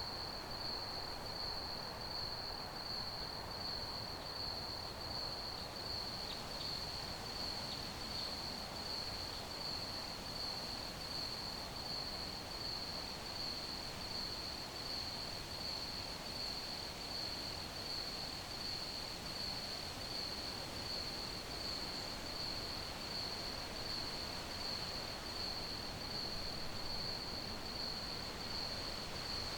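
Crickets chirping in a steady, even, high-pitched rhythm over a soft, constant hiss of background noise.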